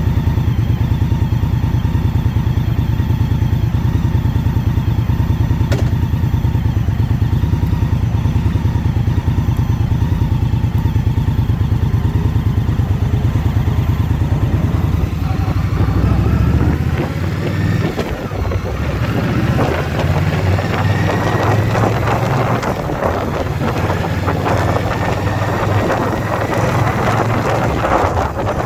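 2021 Indian Scout Bobber Twenty's V-twin engine running steadily under way. About two-thirds of the way through the engine briefly drops away, then its pitch slowly rises as it pulls again, with gusty wind noise on the microphone growing over it.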